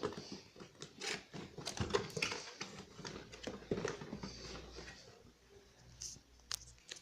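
Toy model's cardboard box and packaging being opened by hand: irregular scraping and rustling with many sharp clicks and knocks.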